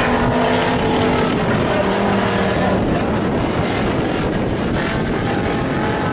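Stock-class race trucks running at speed on the track, their engines making a steady, loud mix. Pitched engine notes stand out for the first two seconds or so, then blend into a denser drone.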